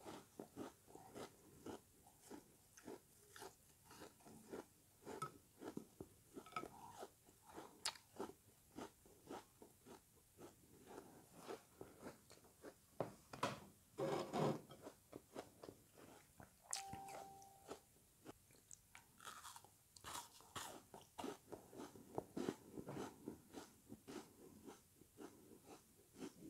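Close-up chewing of frozen lemony sponge pieces: rapid, irregular crunching and crackling bites, loudest near the middle.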